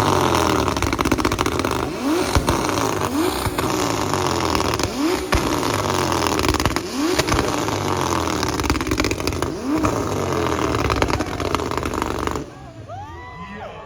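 Car engine revved over and over, its pitch rising every second or two under a loud rushing noise. Near the end it cuts off suddenly, leaving quieter voices.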